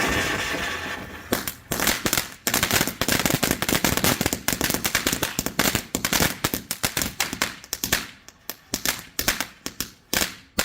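Giant Bullseye Cone firework fountain: its steady spray hiss fades out about a second in, then a long string of rapid sharp crackling pops follows, thinning out toward the end.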